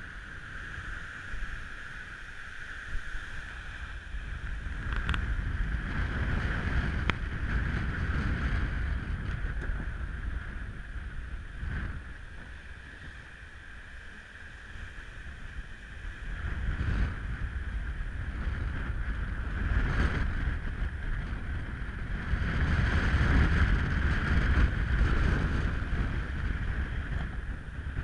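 Strong wind buffeting the microphone and water rushing past a Lagoon 620 sailing catamaran running downwind in a gale, swelling in three gusts, with a steady high-pitched hum throughout and a few sharp clicks.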